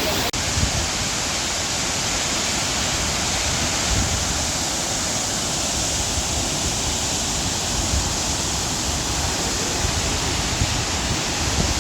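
Water of the Tortum Waterfall falling, a steady, even rushing noise with no breaks.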